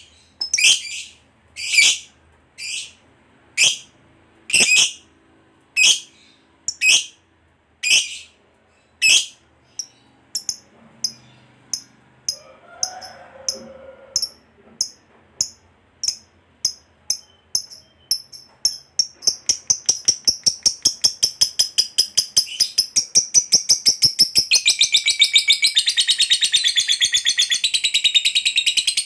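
Lovebird calling: sharp, shrill single calls about once a second that speed up from about ten seconds in and run into a long, rapid chattering trill, the 'ngekek panjang' that lovebird fanciers prize. The trill grows denser and fuller near the end.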